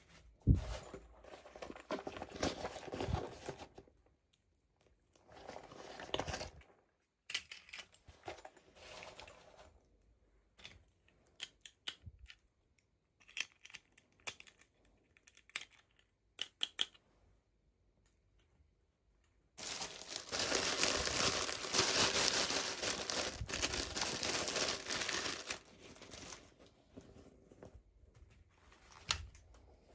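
Toy packaging being handled and opened by hand: crinkling and tearing in several bursts, with small clicks and taps in between. A longer, louder stretch of rustling comes about two-thirds of the way through.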